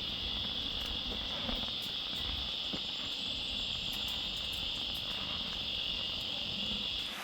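Tropical forest insect chorus: a steady, high-pitched drone with no break in it, which cuts off abruptly near the end.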